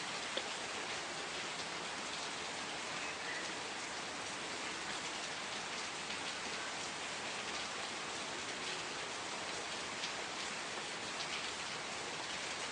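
Steady rain falling, an even hiss with scattered individual drop impacts standing out here and there.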